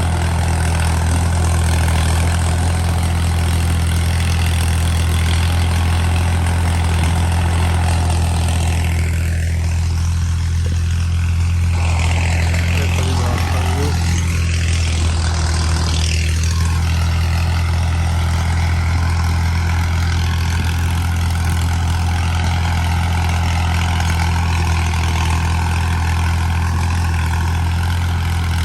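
Al-Ghazi 65 hp tractor's diesel engine running steadily with a deep, even hum. Around the middle, a higher whine falls in pitch and rises back again.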